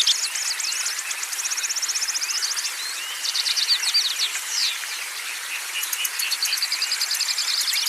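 Several small songbirds singing over one another: fast, evenly repeated trills and quick high chirps, with a fresh rapid trill starting near the end.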